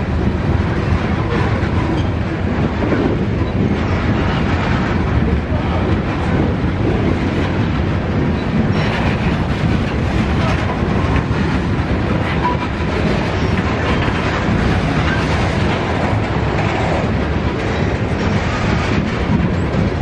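BNSF freight train rolling past, its cars' wheels clattering over the rail joints with a steady rumble.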